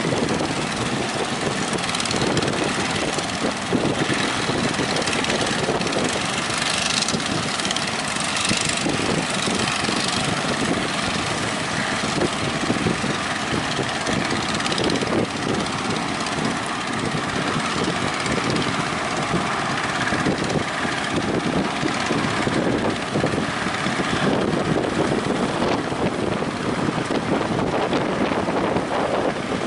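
Strong wind on the microphone over breaking surf: a loud, steady rush of noise that swells now and then.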